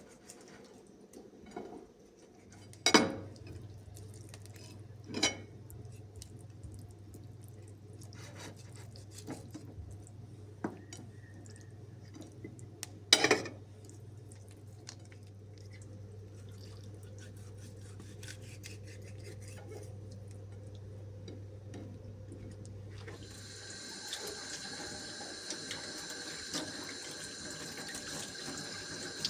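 Kitchen work sounds: three loud sharp clinks of dishes or utensils and a few lighter ticks over a steady low hum. About 23 seconds in, a tap is turned on and water runs into the sink.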